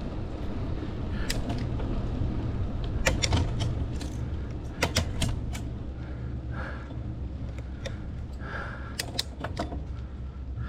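Wind rumbling on the microphone while cycling, with a scatter of irregular sharp clicks and rattles, typical of a bicycle jolting over a rough path.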